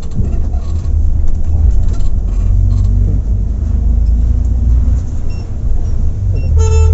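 Volvo B8R coach running at speed on the highway, a steady low engine and road rumble. A horn starts sounding just before the end.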